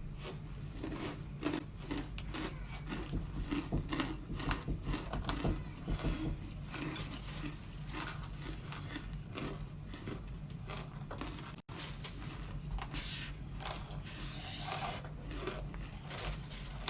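Baked cornstarch chunks crunching and crumbling in quick, uneven clicks, over a steady low hum. A rustling hiss comes in near the end.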